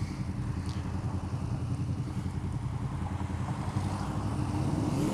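Motorcycle engine running steadily while riding, with a low, even drone and a little wind noise.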